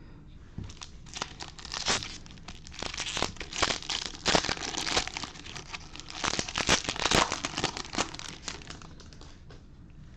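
Foil wrapper of a Bowman Hobby baseball card pack being torn open and crinkled by hand. The crackling runs in uneven clusters, loudest in the middle, and dies down near the end.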